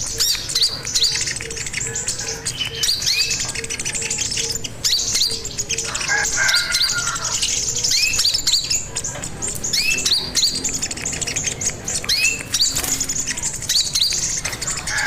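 A sogon sunbird singing a rapid run of short, high, upswept chirps, repeated throughout. A faint evenly pulsing low tone runs under it for the first few seconds.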